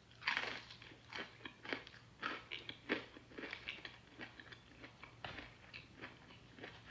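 A person bites into crunchy food with one loud crunch right at the start, then chews with mouth close to the microphone: irregular crisp crunching clicks, two or three a second.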